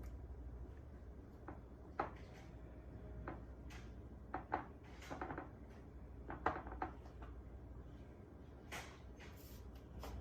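Scattered light knocks and clatter of kitchen dishes and containers being handled, over a low steady hum.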